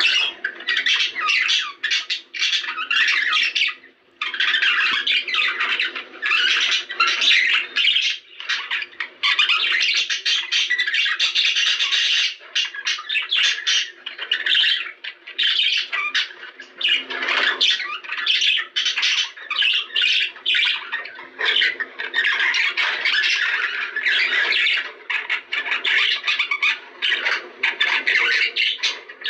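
Budgerigars chattering and squawking with hardly a pause, a dense run of fast warbling and sharp calls: the breeding-season chatter played to get budgies to mate.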